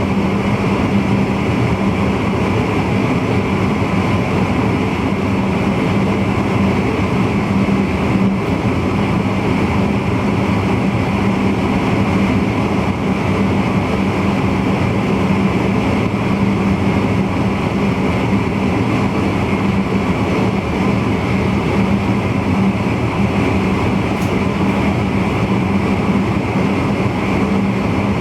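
VIRM double-deck electric intercity train running steadily, heard from the driver's cab: continuous rolling and running noise with a constant low hum.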